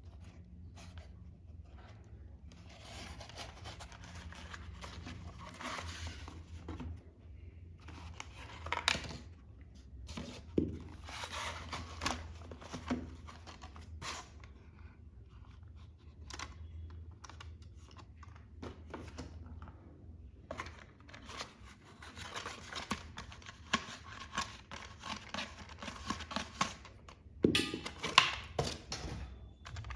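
Toy packaging being opened and handled: irregular tearing and crinkling of cardboard and plastic, with scattered sharp clicks and knocks, loudest near the end. A steady low hum runs underneath.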